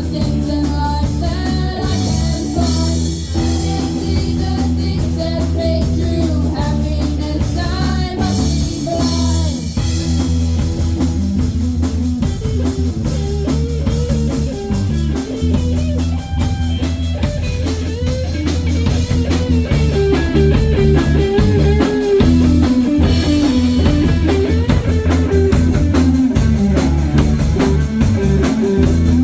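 Live rock band playing a song: guitar, bass and drum kit, with singing.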